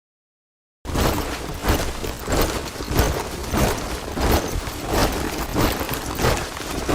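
Soldiers' boots marching in step: a steady, even beat of heavy footfalls from a squad. It starts about a second in, after a silent gap.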